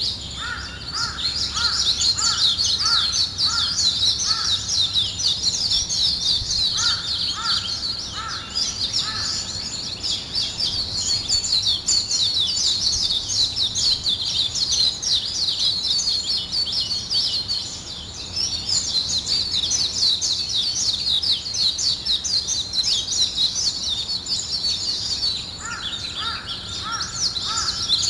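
A chorus of many small birds chirping and twittering continuously and densely at a high pitch. Three times, a lower bird call cuts through in a run of about half a dozen short, evenly spaced notes.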